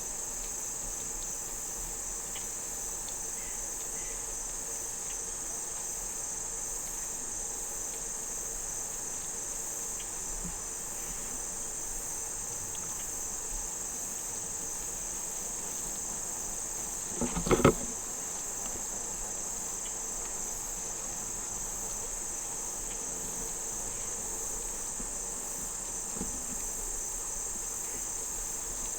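Crickets and other insects chirring in a steady, high-pitched drone. About two-thirds of the way through, a short clatter of a few sharp knocks cuts in briefly.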